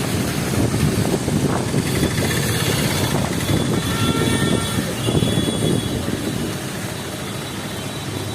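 Low rumble of a passing vehicle on a wet street, with faint thin high whining tones about two seconds in that fade out after about six seconds.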